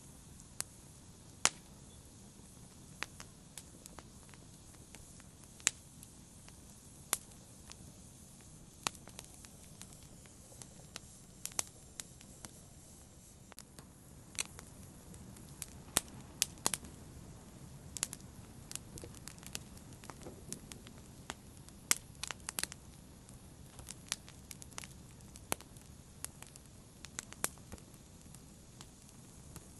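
Wood fire crackling: irregular sharp pops and snaps over a low steady hiss, the pops coming more often in the second half.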